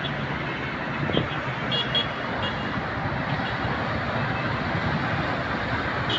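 Steady street traffic noise, with a few brief high pips about two seconds in.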